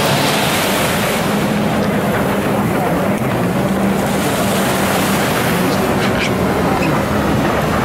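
Jet ski engine running steadily over rushing water, with a continuous wash of spray and wind noise.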